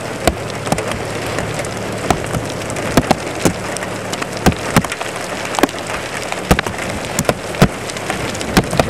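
Steady rain with large drops striking close to the microphone as irregular sharp taps, a few a second.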